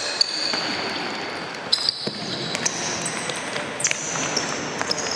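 Indoor futsal play: the ball being kicked and bouncing in sharp knocks, with shoes squeaking briefly on the court floor, over a steady murmur of the hall.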